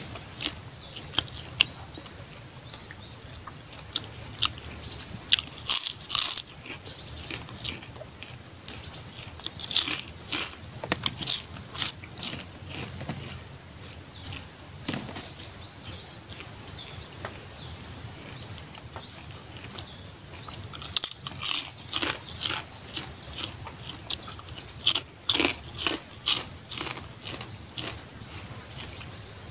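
A person chewing and crunching food at close range, in clusters of short crisp clicks. Birds chirp now and then, over a steady high insect buzz.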